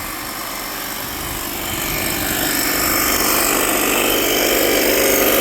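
Air compressor running with a steady rattle while inflating flat tyres, growing louder about two seconds in.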